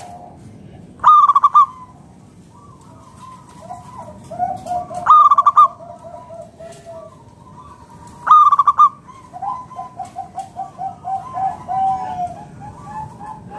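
Zebra dove (perkutut) cooing: three loud, short calls a few seconds apart, with runs of quick, softer staccato coos between them.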